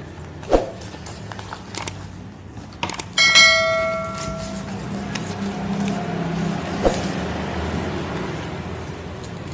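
Iron bird-cage parts knocking together in a few sharp clinks while being assembled. Just after three seconds one metal strike rings out clearly for about a second and a half, the loudest sound, over a steady low background hum.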